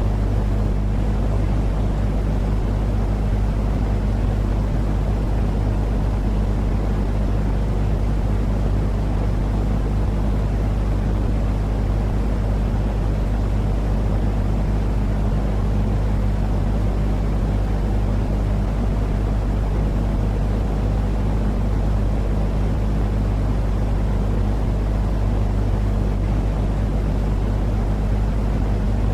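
Steady white-noise sleep track: an unchanging, low, rumbling noise with a steady hum underneath, heaviest in the bass.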